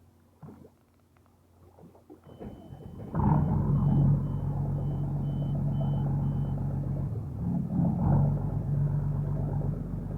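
Fishing boat's engine starting about three seconds in and then running loudly and steadily, with a string of short high beeps from the helm as it starts up.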